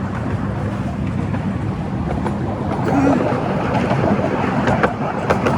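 Miniature railway train running, heard from on board: a steady rumble of the wheels on the track, with sharp clicks and knocks and a slight rise in level from about three seconds in.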